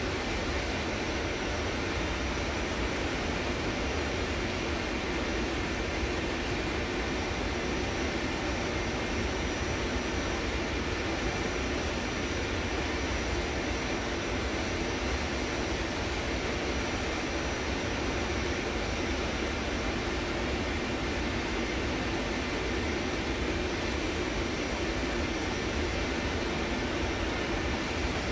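Passenger aeroplane's engines and airflow making a steady, unchanging noise, with a faint high whine held on one pitch.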